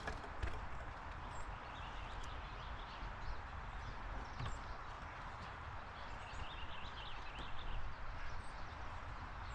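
Outdoor backyard ambience: a steady low rumble with scattered faint taps, and a brief cluster of high chirps about six to seven seconds in.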